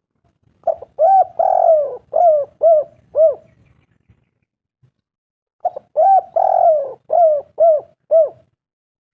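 Spotted dove cooing: two phrases about five seconds apart, each a short lead-in note followed by a run of hooked coos, one of them drawn out longer than the rest.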